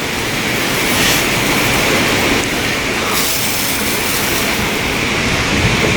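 Self-service car wash spray wand spraying low-pressure wax onto a vehicle: a steady hiss of liquid spray.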